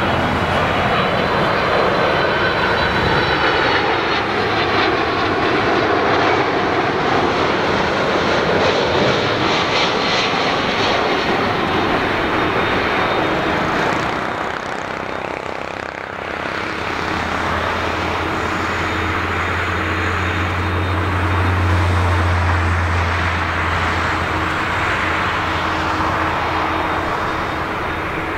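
Jet airliner engines running loud on a low landing approach, a broad steady jet noise. It dips briefly about halfway through, then builds again with a deeper hum.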